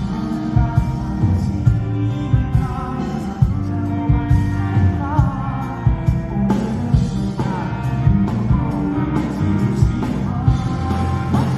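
Pop-rock band music with a singer, over a steady drum beat.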